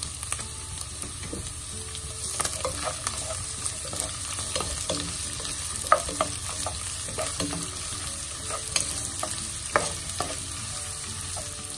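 Chopped onions, garlic and browned ground chicken sizzling in oil in a frying pan, stirred with a spatula that scrapes and knocks against the pan now and then. The sharpest knocks come about six and ten seconds in.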